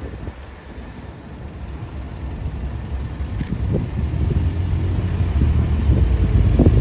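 An approaching train: a low rumble that grows steadily louder.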